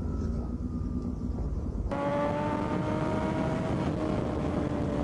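Motorcycle engine audio from riding footage, its pitch slowly falling as the revs drop; about two seconds in the sound cuts abruptly to another clip where an engine runs with a clearer, slowly falling pitch.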